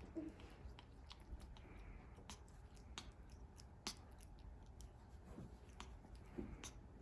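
A Congo African grey parrot's beak nibbling and chewing a red grape: faint, irregular small clicks.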